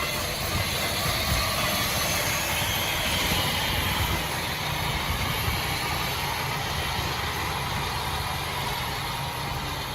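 Heavy diesel earthmoving machine running under load: a steady low engine rumble with a noisy mechanical clatter over it.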